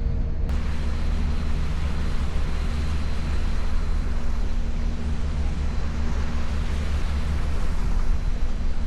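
Car ferry's engine running steadily with a low rumble, under wind and water noise.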